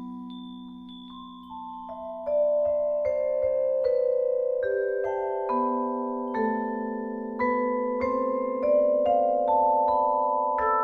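Vibraphone played with mallets: single notes struck one after another, each ringing on long so that they overlap into a sustained chord. A faint, dying chord opens it, and from about two seconds in new notes enter roughly every half second to a second.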